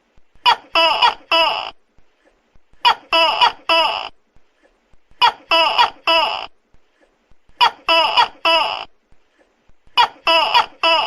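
Tokay gecko calling loudly: repeated groups of three or four sharp 'to-kay' notes, a new group about every two and a half seconds, five groups in all.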